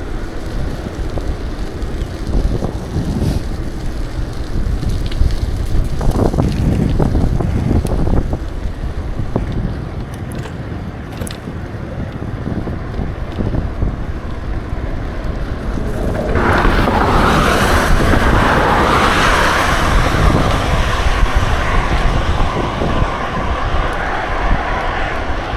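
Wind buffeting the microphone of a moving bicycle, a steady low rumble that swells in gusts. About two-thirds of the way in, a louder, steady, hissing rush sets in and holds.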